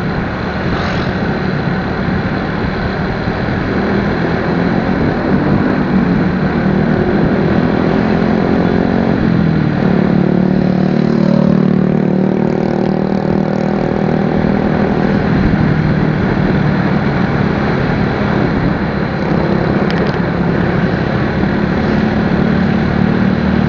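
Motorcycle engine running under way, with steady wind and road noise over the microphone. The engine note slides and then settles at a new steady pitch about ten seconds in.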